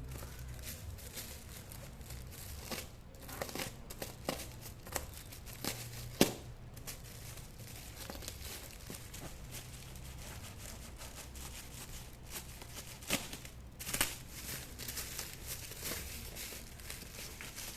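Packaging being opened by hand: crinkling and tearing of wrapping, with scattered sharp clicks and taps. The loudest taps come about six seconds in and again near fourteen seconds.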